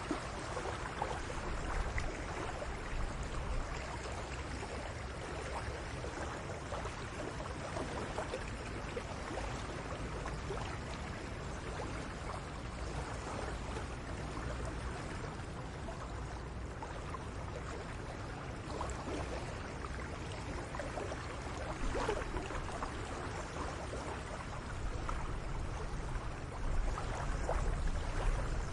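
Steady noise of running water, with a low rumble under it that grows a little louder near the end.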